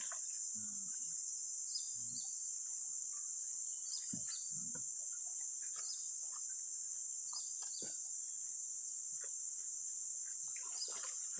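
A steady, high-pitched drone of insects chirring, with scattered faint clicks and knocks.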